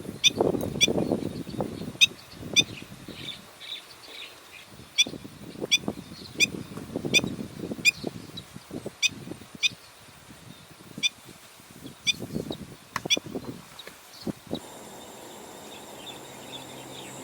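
Black-winged stilt giving a series of short, sharp calls, roughly one to two a second, over irregular low muffled bumps. The calls stop about fifteen seconds in, leaving a steady hiss.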